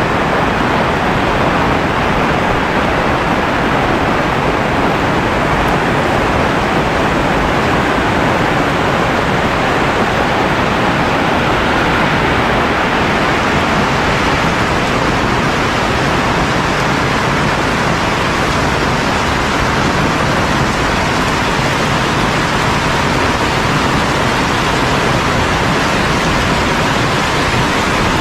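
Heavy rain pouring steadily, a dense even hiss with no thunder claps.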